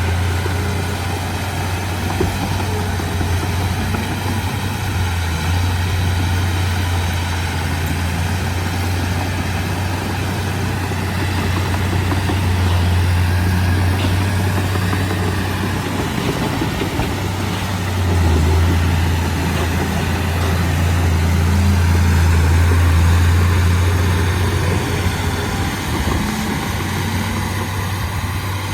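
Heavy diesel engine running steadily with a deep drone, growing louder from about 18 seconds in and easing off a few seconds later.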